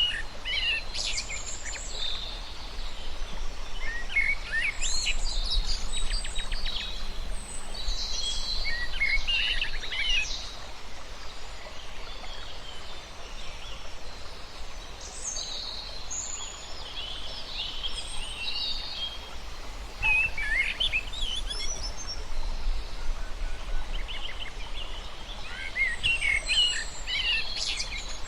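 Several birds chirping and trilling in quick, overlapping bursts, with a quieter lull near the middle, over a steady low background noise.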